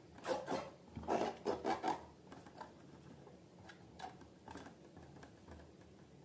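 Rubber balloons and slime being handled: a cluster of short rubbing, scratching sounds in the first two seconds, then only faint scattered ticks.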